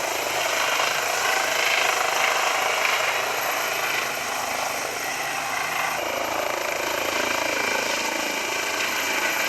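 Trauma helicopter's rotor and turbine running steadily, a loud continuous noise with a rapid rotor beat.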